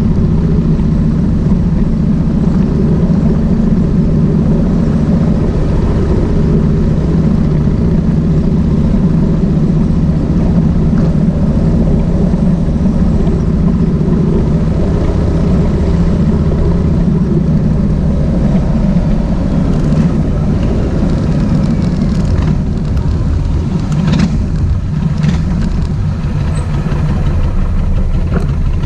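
Kawasaki VN1600 Mean Streak's V-twin engine running steadily under way at even revs, with a few short knocks in the last third.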